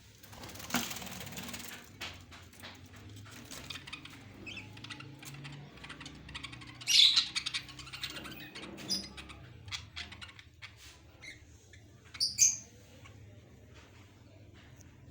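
Kept birds chirping among rustling and small clicks, with a noisy rustling burst in the first couple of seconds, the loudest call about seven seconds in, and two short high calls a little after twelve seconds.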